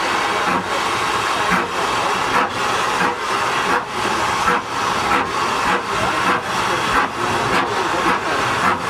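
Schynige Platte Bahn SLM H2/3 0-4-2T steam rack locomotive working uphill, its exhaust beating out a steady hissing chuff about one and a half beats a second.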